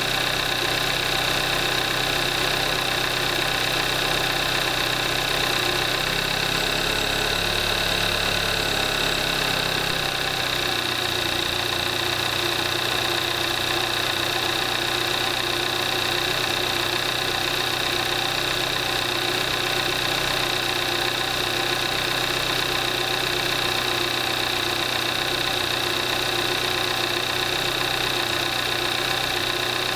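2014 Kia Forte5's 2.0 GDI direct-injection four-cylinder engine idling steadily, at 38,300 miles on synthetic 5W-20 oil. The deeper hum eases about ten seconds in, and the engine runs on evenly after that.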